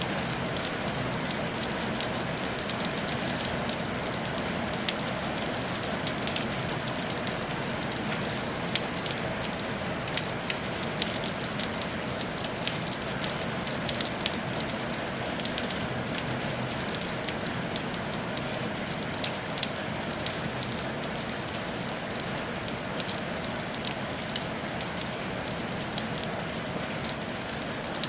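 Steady rain falling on a tile roof: a continuous hiss dotted with many small, sharp drop ticks.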